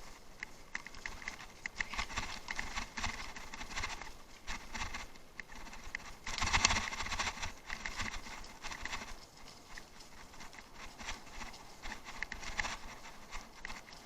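Bicycle rattling and tyres crunching over a rough off-road track: a dense, uneven run of small knocks and clicks, with a louder jolt about six and a half seconds in.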